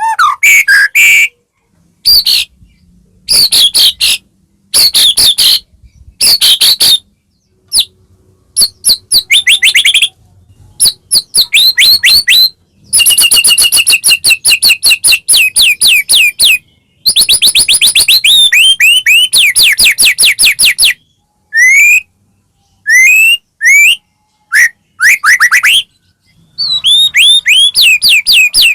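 White-rumped shama (murai batu) singing vigorously: rapid trills, churrs and whistled notes in phrases of about one to four seconds, broken by short silences, with the longest run of song in the middle.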